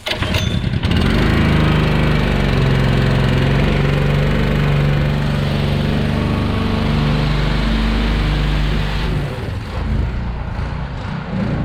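Small gasoline engine of a pressure washer starting up and running steadily, its sound easing off near the end.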